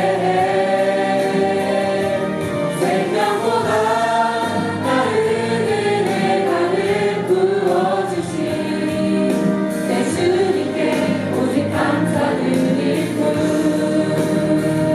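Church choir of mixed voices singing a gospel worship song in unison, steady and full, over instrumental accompaniment.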